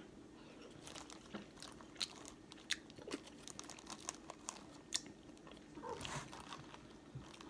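Faint, scattered crunches and clicks of a person eating boiled seafood with shells, chewing and handling the food close to the microphone.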